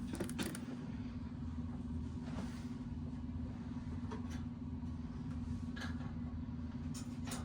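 Steady low background hum with an underlying rumble, broken by a few faint, light clicks.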